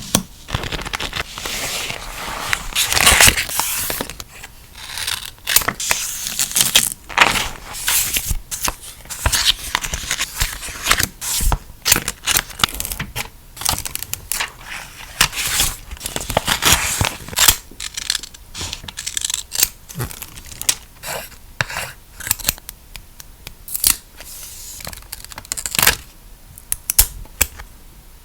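Close-up paper crafting sounds: repeated short tearing, rustling and scraping of paper and stickers being handled and laid down on a journal page. The strokes come irregularly and thin out near the end.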